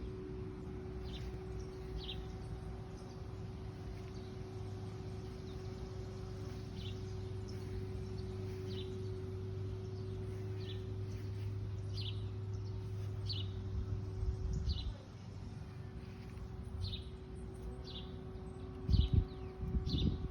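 A small bird repeating short, high, downward-sliding chirps about once a second, over a steady low hum and rumble, with a couple of low thumps near the end.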